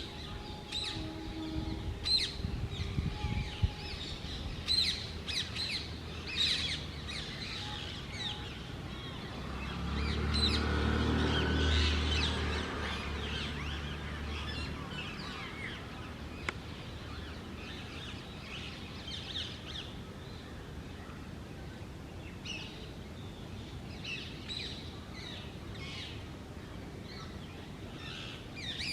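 Rose-ringed parakeets giving repeated short, shrill calls, in bunches through the first half and again later on. A low engine rumble swells up near the middle and fades out a few seconds later.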